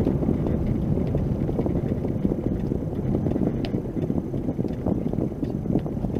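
Steady low rumble of road and wind noise from a moving vehicle, with scattered faint clicks.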